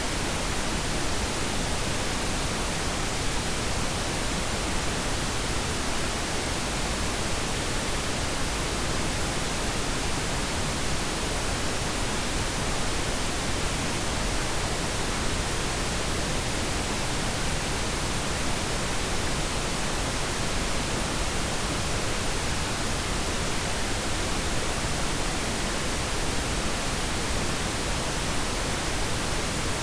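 Steady pink noise: an even, unchanging hiss spread across the whole range, with no tones or events.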